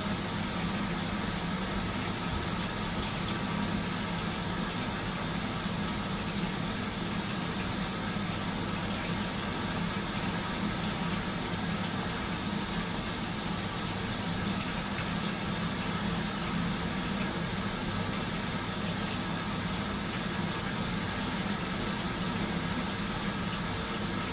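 Washing machine running: a steady low hum with an even layer of noise over it, unchanging throughout.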